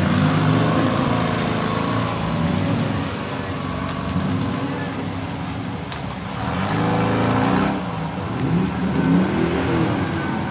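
Classic MG sports car engines running as a red roadster drives off and the next car, an MGB GT, moves up. In the second half the engine note rises and falls with the throttle.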